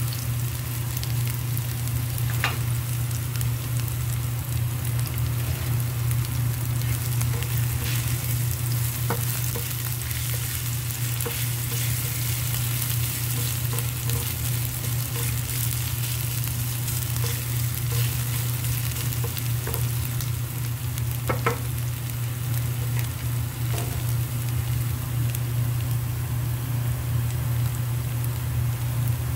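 Julienned ginger sizzling steadily in olive oil in a nonstick frying pan, stirred now and then with a spatula. A steady low hum runs underneath, and two sharp clicks come about two seconds in and again about twenty-one seconds in.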